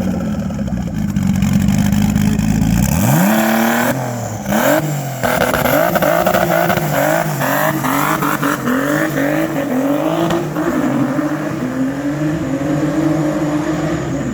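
Twin-turbo M52 straight-six in a BMW E36 accelerating hard on the street. It runs at a steady low pitch, then about three seconds in the revs climb sharply, and after that the engine note rises and falls again and again.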